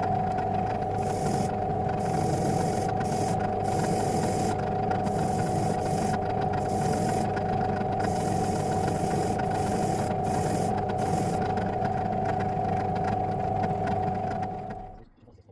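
Electric power tool motor running steadily with a constant whine, with a rough scraping hiss that comes and goes. It is switched off near the end and winds down.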